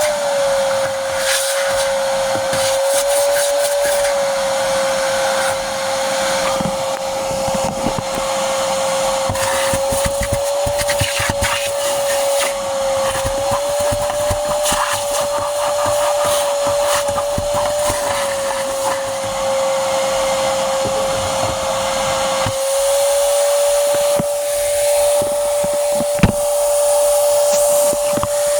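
Vacuum cleaner running while the inside of a car is cleaned: a steady motor whine under a rush of air whose sound shifts several times. There is a single sharp click near the end.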